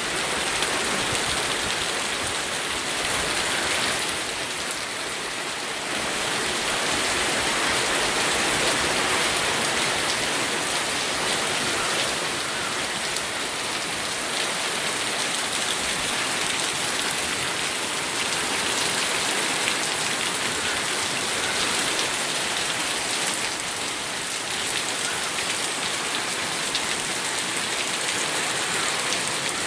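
Steady rain falling on a surface, a dense even hiss with slight swells in intensity.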